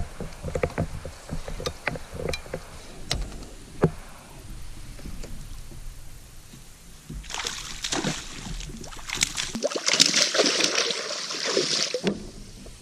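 Light knocks and clatter on a kayak hull, then about five seconds of loud splashing at the water's surface as a hooked bass thrashes beside the kayak.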